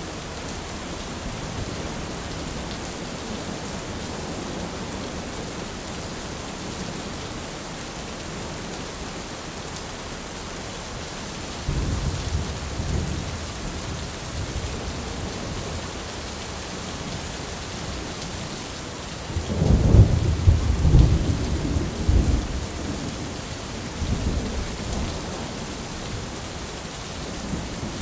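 Steady heavy rain hissing, with rolls of thunder: a low rumble about halfway through and a louder, longer crack-and-rumble about two-thirds of the way in, then a smaller one a few seconds later.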